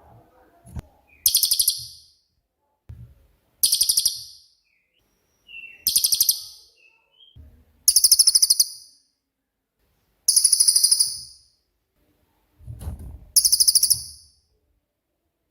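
Cililin bird singing its rapid 'shooting' song: six loud, very fast, high-pitched trills, each about a second long, repeated every two to three seconds.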